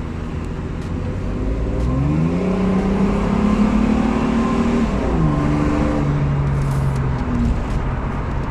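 Car engine revving: its pitch rises about two seconds in and holds, drops about five seconds in, then eases off near the end.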